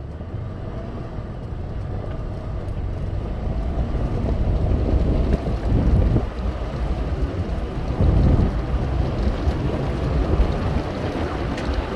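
Toyota 4Runner driving slowly over loose rock: a low engine rumble that builds over the first few seconds, with surges about halfway through, and the tyres crunching and grinding on the rocks.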